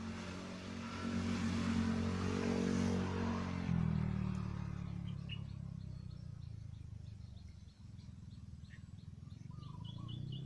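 An engine passing close by: a steady hum, loudest in the first few seconds, that drops in pitch about four seconds in and fades away. A bird chirps in quick repeated notes near the end.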